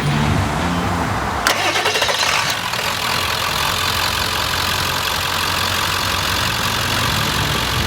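2000 Ford F-250's 7.3-liter V8 turbo-diesel starting about one and a half seconds in, then settling into a steady idle.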